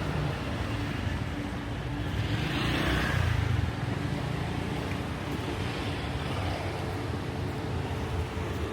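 Street traffic noise, with engines running steadily and a vehicle passing close by and rising in level a few seconds in.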